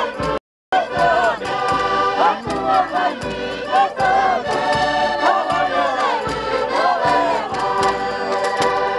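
Music with a group of voices singing together loudly. The sound cuts out completely for a moment shortly after the start.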